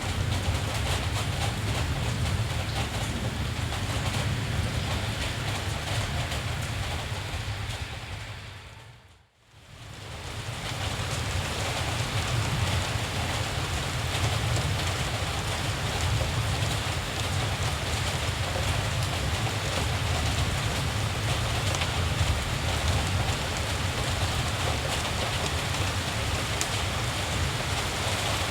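Steady rain with a low rumble beneath it. About nine seconds in, the whole sound dips away almost to silence, then swells back within a second or two.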